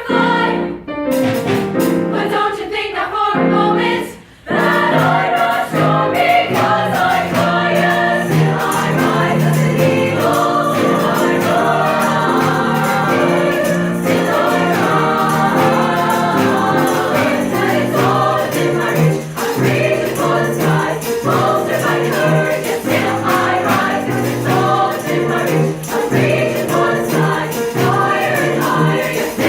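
High school choir singing in a live performance, with a brief break between phrases about four seconds in.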